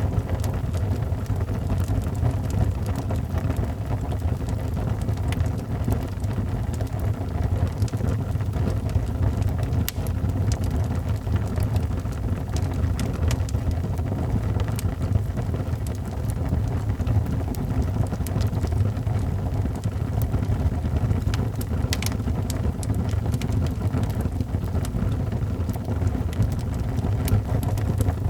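Crackling wood fire mixed with rain: scattered sharp pops and crackles over a steady low rushing noise.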